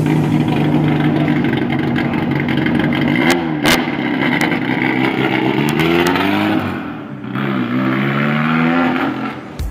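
Race-prepared Volkswagen Gol hatchback's engine revving as it pulls away through the gears, the pitch climbing and then dropping at each of two shifts. Two sharp pops sound at the first shift, a few seconds in.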